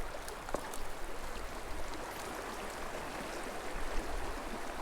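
Small mountain creek flowing: a steady rush of running water.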